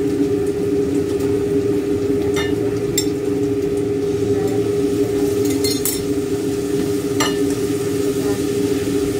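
Food frying and sizzling in a wok on a gas stove, with a few short metal clinks of a spatula and ladle against the wok and pot. Under it all runs a steady machine hum, the loudest thing heard.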